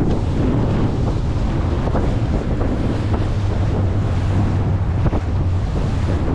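Wind buffeting the microphone over the steady drone of a 90 horsepower Evinrude outboard and water rushing against the hull of an inflatable boat under way.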